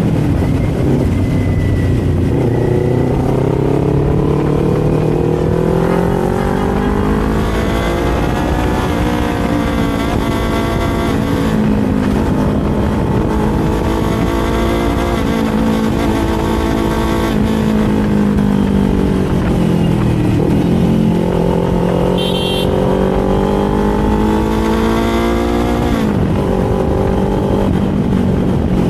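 Kawasaki Z400 parallel-twin engine and exhaust on the move, the engine note rising and falling with throttle and speed. The pitch climbs over the first several seconds, sags about two-thirds through, climbs again, then drops sharply about three seconds before the end.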